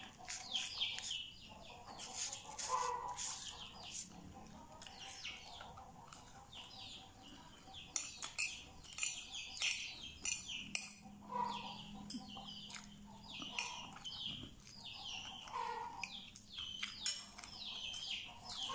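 Birds chirping: many short, high, falling chirps in quick succession, with an occasional lower call.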